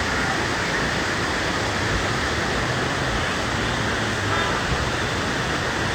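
Waterfall water falling and rushing in a steady, loud stream of noise.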